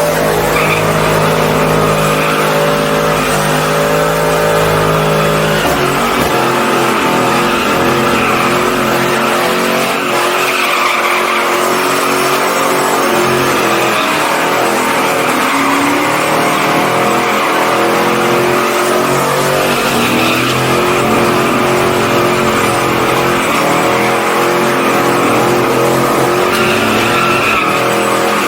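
A truck engine held at high revs during a burnout, tyres squealing on the pavement. The engine note holds and steps up and down in pitch as the throttle is worked.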